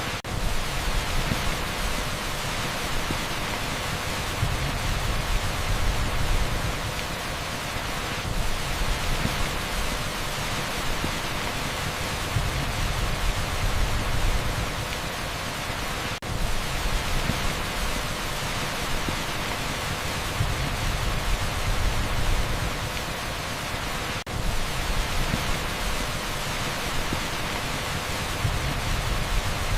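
Heavy rain pouring onto an asphalt street: a dense, steady hiss over a low rumble. The level dips briefly about every eight seconds.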